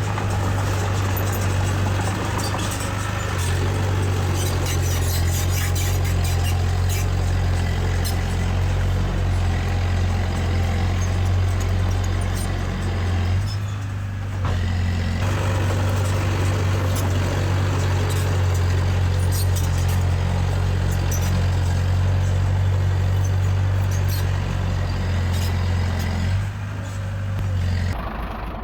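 Diesel engine of heavy earthmoving machinery running steadily with a deep, even note, with scattered light metallic clanks. The engine note dips briefly about halfway through and again near the end.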